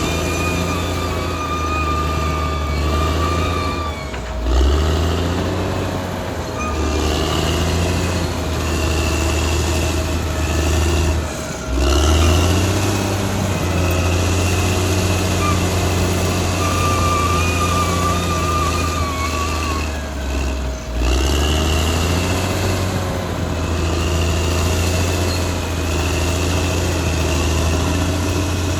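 Caterpillar D6R XL bulldozer's diesel engine working steadily under load, with a high whine over it. The engine note dips briefly and climbs back three times as the machine changes load or direction.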